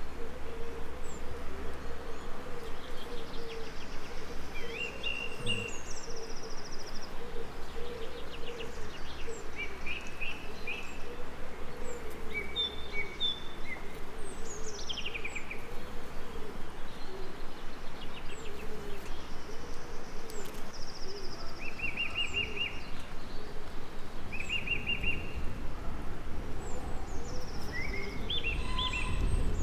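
Songbirds chirping and trilling in short scattered phrases over a steady hiss, with a wavering insect buzz underneath. A low rumble builds near the end.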